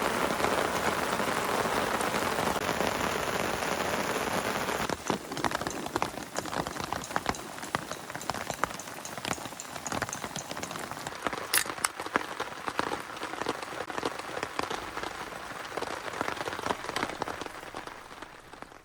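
Heavy rain: a dense, steady downpour that about five seconds in gives way to separate drops hitting close by, some sharper than others, fading slightly near the end.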